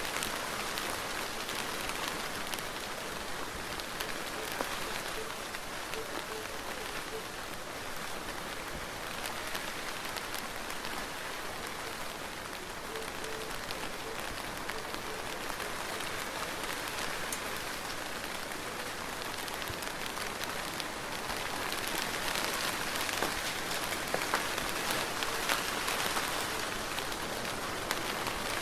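Steady soft rain falling on a surface, an even hiss with many small drop ticks, growing a little louder about two-thirds of the way through.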